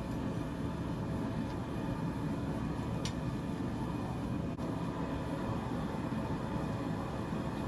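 Forge running, a steady rumbling roar, while knives are heated for thermocycling before the quench.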